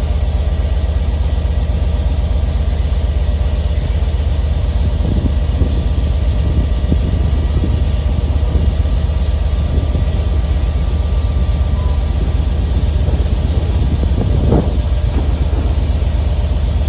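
Southeastern electric multiple-unit train passing, a steady heavy rumble with faint steady whining tones above it. Several wheel knocks over the rail joints come about five to seven seconds in, and a sharper knock comes near the end.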